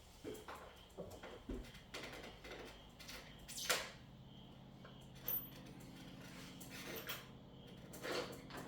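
Scattered clicks, knocks and rustles of an item and its packaging being handled, the sharpest click coming a little over three and a half seconds in. A faint steady hum sits underneath from that point on.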